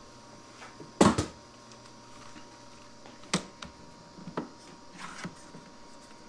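A few scattered clicks and knocks from a DeWalt quick-grip bar clamp being set and squeezed onto a wooden stop block. The loudest clatter comes about a second in, followed by several lighter ticks.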